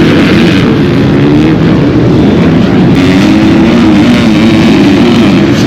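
Off-road motorcycle engines running loud, their pitch wavering up and down with the throttle.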